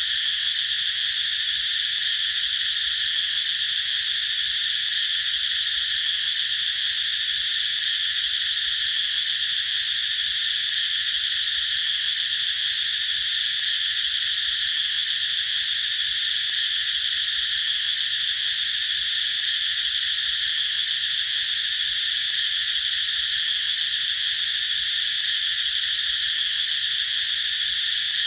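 Cicadas calling in a dense, continuous chorus: a steady high buzzing drone that doesn't let up or change.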